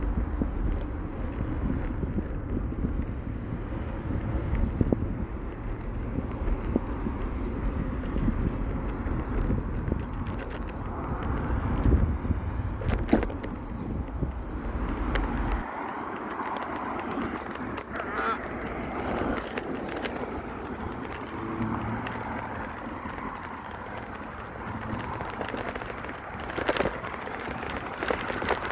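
Passing road traffic with wind rumbling on the microphone during a bicycle ride. The low wind rumble cuts off suddenly about halfway through.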